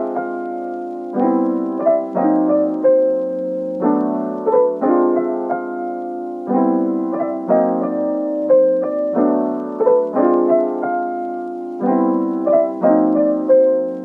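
Background music: a gentle piano melody over repeated chords, played in short phrases.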